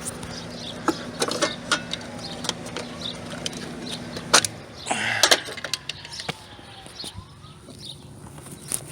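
Air-conditioner condenser unit humming steadily, with scattered clicks and knocks of hands and tools on the unit. The hum stops about halfway through, around a couple of louder knocks, as the restarted compressor tries its new capacitor.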